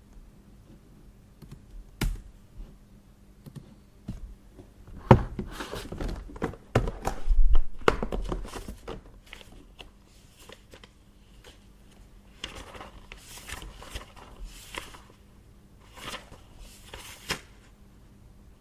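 Paper being handled at a desk: rustling and crinkling sheets, with a sharp click early on and a run of knocks and handling noise in the middle, the loudest part, then softer rustles near the end.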